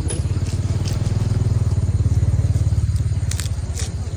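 Motorcycle engine running close by, a low pulsing rumble that swells to about halfway and then eases off.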